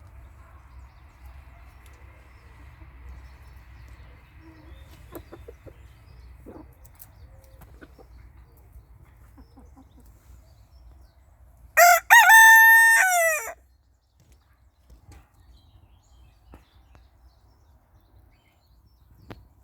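Barnevelder rooster crowing once, about halfway through: a short opening note, then a long held cock-a-doodle-doo that drops in pitch at the end.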